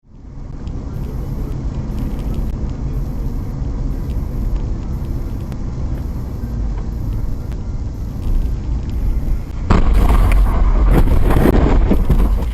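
Steady low rumble of a car driving on the road, heard through a dashcam. About ten seconds in, a louder, rough noise rises for a couple of seconds, then drops back.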